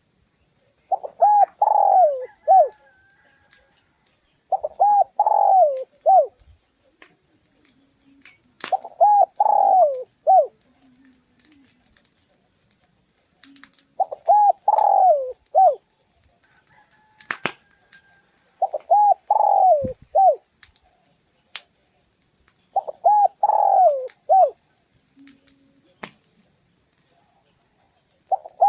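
Spotted dove (Streptopelia chinensis) cooing: a short phrase of three or four low notes with a falling close, repeated six times about every four to five seconds, with a seventh starting at the end.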